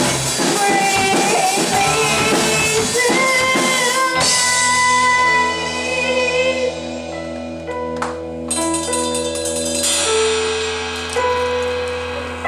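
Live rock band playing with drums and singing; about four seconds in the full band drops away, leaving held keyboard chords over a sustained low bass note.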